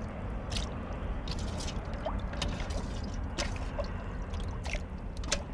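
Beef short-rib broth being ladled out of a cauldron: scattered splashes and pours of liquid, over a steady low rumble.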